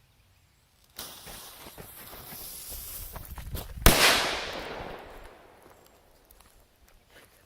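An M-80 firecracker's lit fuse hisses and sputters for about three seconds, then a single sharp bang goes off, its echo dying away over a second or so.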